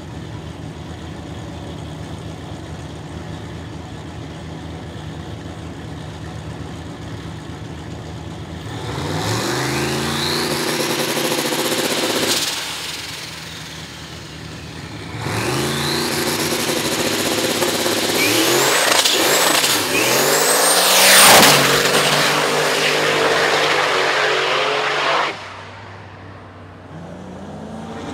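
Turbocharged Cadillac CTS-V drag car idling on the starting line, revving up for a few seconds and dropping back. About fifteen seconds in, it launches and pulls hard up through several gear changes with a high, jet-like turbo whine. The sound cuts off near the end.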